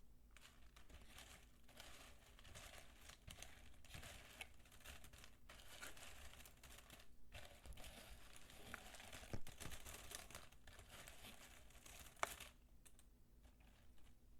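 Dry soap peelings being crumbled and crushed by hand close to the microphone: a dense, continuous crackling that breaks off briefly once and stops shortly before the end, with two sharper snaps, about nine and twelve seconds in.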